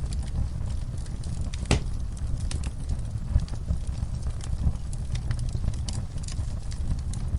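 Wood fire burning in a fireplace: a steady low rumble of flames with irregular crackles and pops, the strongest pop about two seconds in.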